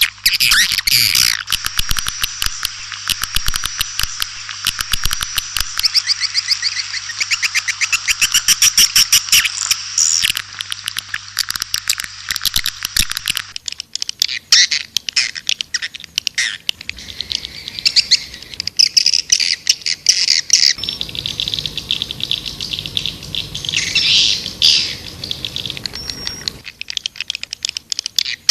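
Recorded white-nest swiftlet calls: a dense, rapid twittering of chirps and clicks. About halfway through, the chatter changes to sparser, choppier chirping as another stretch of the recording begins.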